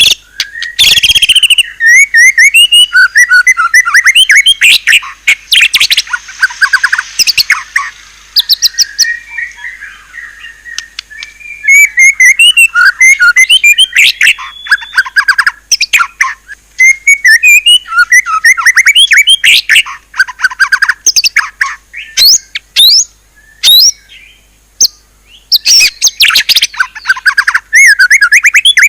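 White-rumped shama (murai batu) singing a loud, fast, varied song of sharp whistles, trills and rattles, rich in mimicked phrases ('isian'), with a couple of brief lulls.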